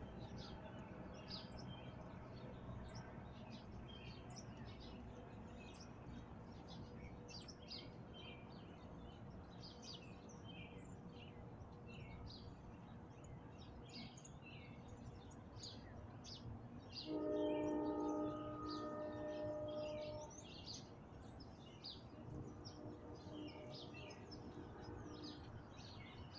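Many small birds chirping and twittering over a low background rumble, with a steady droning tone that swells for about three seconds past the middle and comes back faintly near the end.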